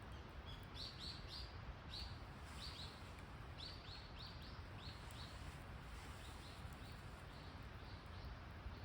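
A small bird calling nearby: short high chirps, many in quick runs of three or four, over a faint steady low rumble.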